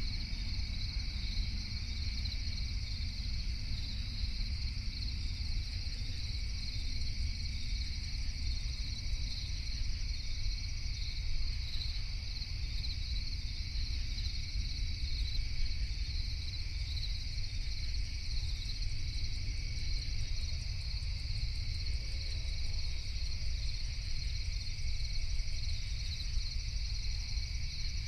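Steady night chorus of insects, a continuous high trilling with a second, lower-pitched band, over a constant low rumble of noise.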